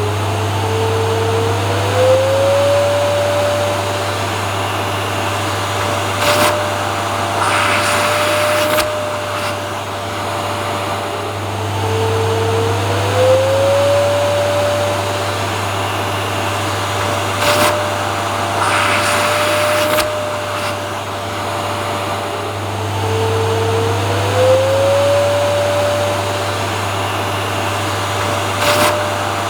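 Vacuum cleaner running steadily as white noise: a constant low hum under a motor whine that glides up in pitch and then holds. Stretches of louder hiss come and go, and the pattern repeats about every eleven seconds.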